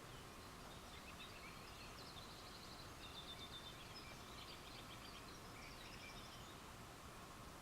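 Faint night ambience with several short, rapidly pulsed high trills from small animals calling, overlapping through the middle, over a faint steady hum from a distant chorus.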